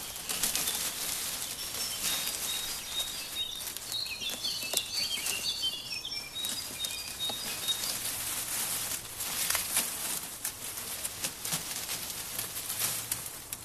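Leaves rustling in the wind, a steady hiss full of small crackles, with birds chirping several times in the middle.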